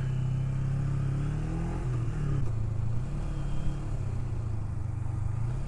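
Kawasaki Ninja 250R parallel-twin motorcycle engine running steadily at low speed. Its pitch dips and rises briefly about two seconds in.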